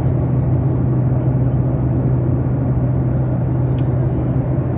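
Steady drone inside an airliner's cabin: engine and airflow noise with a strong low hum, unchanging throughout, and a couple of faint ticks near the end.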